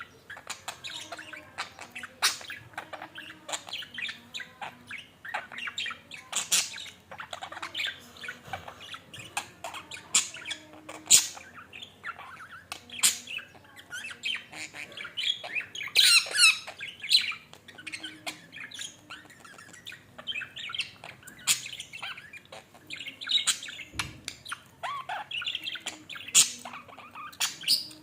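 Pet budgerigar chattering continuously, with many short sharp squawks and chirps in an irregular stream.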